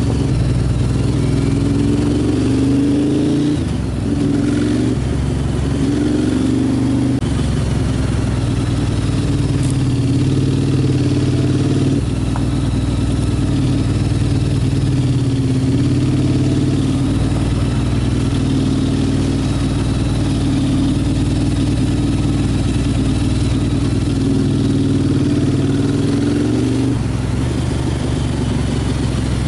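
Motorcycle engine running under way. Its note climbs and then drops back several times as the rider accelerates and shifts gears.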